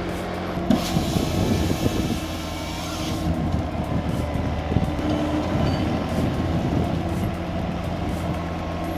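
Heavy diesel engine of logging equipment running steadily, with a hiss about a second in that stops a couple of seconds later.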